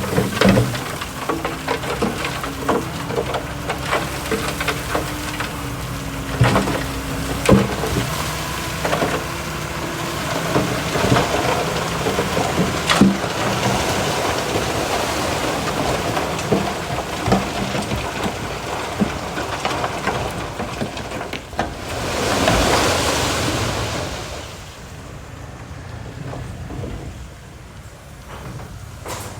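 Komatsu bulldozer working: its diesel engine runs under load while rock crunches and clatters against the blade and tracks, with frequent sharp knocks. A louder rush of noise swells about three quarters of the way through, and the sound drops away near the end.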